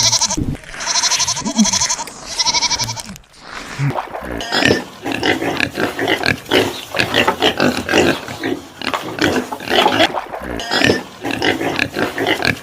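Animal calls: a few quavering, wavering cries in the first three seconds, then a dense, rapid run of short grunting and squealing calls.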